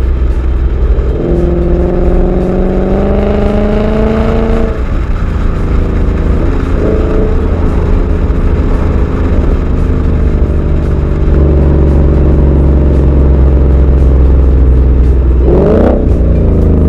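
Ford Mustang V8 running through an X-Force Varex stainless exhaust under acceleration. The pitch rises for the first few seconds and drops off about five seconds in, the engine then runs steadily, and it revs sharply upward near the end.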